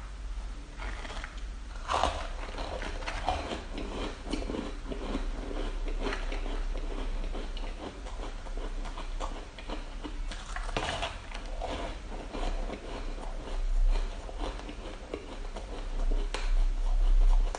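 Close-up biting and chewing of purple-flavoured shaved ice: irregular crisp crunches throughout, with a few louder bites, over a low rumble that swells near the end.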